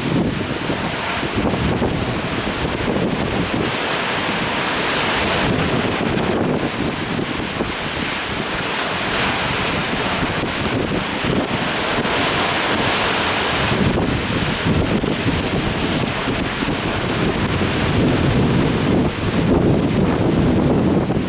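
Heavy typhoon swell breaking as surf, a continuous loud wash of water that surges and eases, with wind buffeting the microphone.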